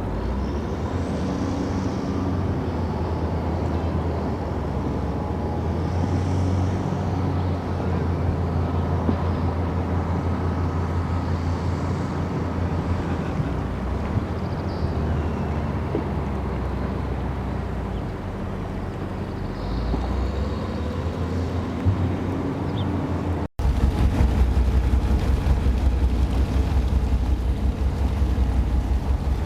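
Engines of the Seahawk high-speed passenger boat idling at the quay with a steady low hum. About three-quarters of the way through, the sound breaks off for a moment and comes back louder, with a fast, even throb.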